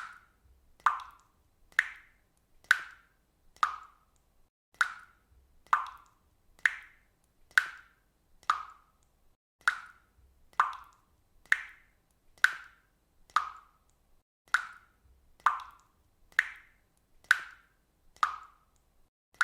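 Water dripping steadily, single drops falling into water at an even pace of a little under one a second, each a short, clear plop.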